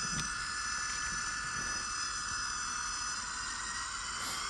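Model train running along the layout track: a steady whirring hiss with a thin, high, constant whine.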